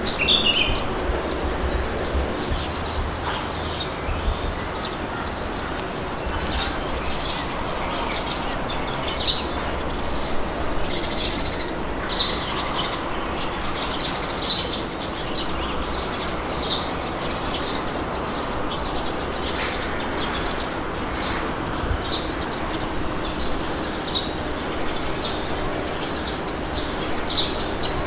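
Steady wind blowing with a low rumble, while birds give short chirps that come and go.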